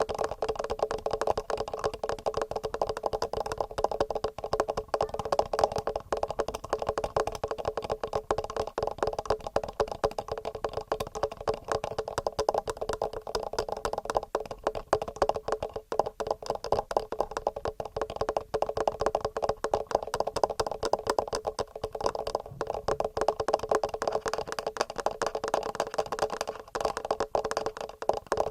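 Fast, continuous fingernail tapping on a TASCAM recorder's microphone, a dense stream of many small taps a second.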